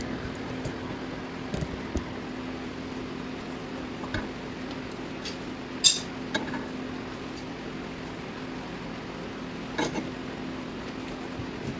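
Scattered sharp metallic clinks and taps of tools on metal, the loudest about six seconds in, over a steady low hum.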